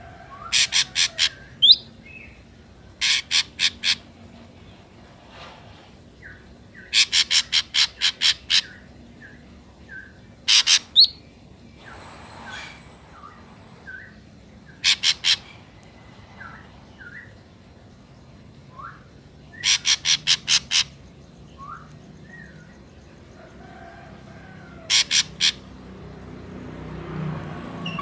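Ashy drongos calling: bursts of three to seven rapid, harsh notes every few seconds, with short whistled slurred notes between them. A low noise swells near the end.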